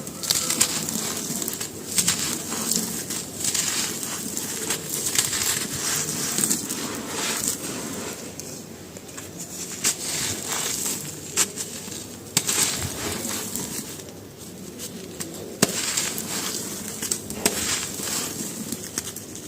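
Dry charcoal pieces being crushed and crumbled: a dense run of crunchy crackles that comes in busy spells, with a couple of quieter gaps and one sharp snap about two-thirds of the way in.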